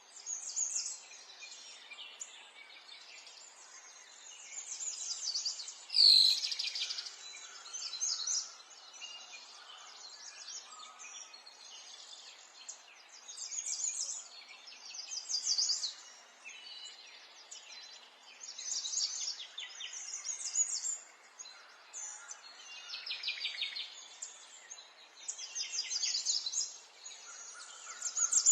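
Several songbirds chirping and singing rapid high trills in phrases every second or two over a soft steady outdoor hiss. About six seconds in comes one louder, sharp call with a click-like attack.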